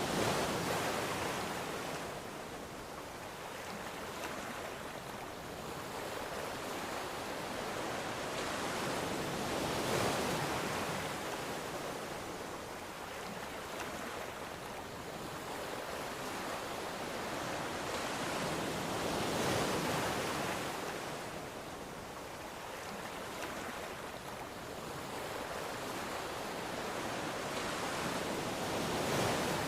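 Ocean waves breaking on a shore, a steady wash of surf that swells roughly every ten seconds as each wave comes in.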